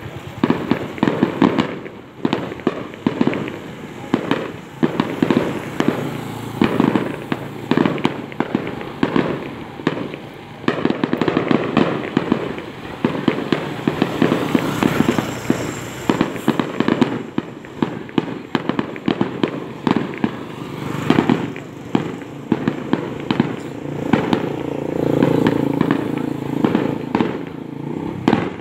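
Fireworks going off in a dense, continuous run of sharp bangs and pops, several a second, without a pause.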